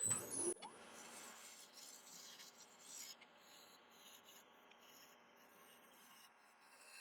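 Shear scraper rubbing lightly over a sycamore bowl turning on the lathe, a faint even scraping as it takes a fine finishing cut. There is a brief louder sound right at the start.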